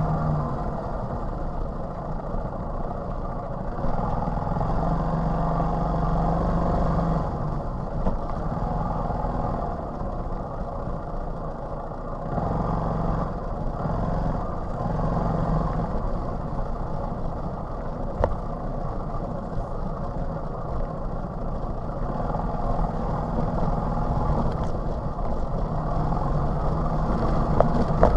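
TVS XL 100 moped's small single-cylinder engine running as it is ridden along, its note rising and dipping a little with the throttle.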